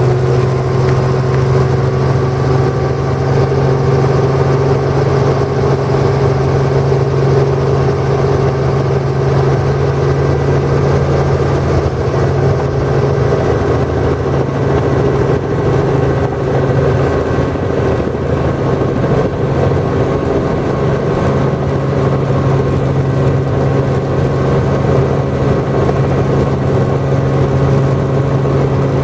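Helicopter engine and rotor running with a steady, loud hum and constant tones, unchanging in pitch.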